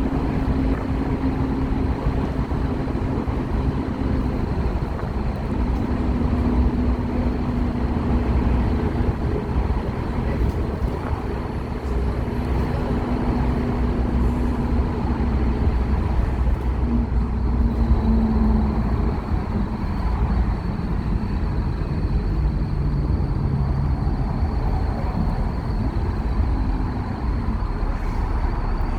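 Scania K230UB Omnilink bus's diesel engine running steadily under way, its engine note changing pitch several times.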